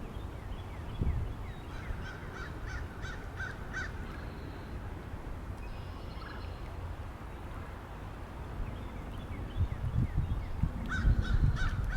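A bird gives a quick series of about six short, harsh calls, then a second series near the end. Under the calls, wind rumbles on the microphone and gets louder in the last couple of seconds.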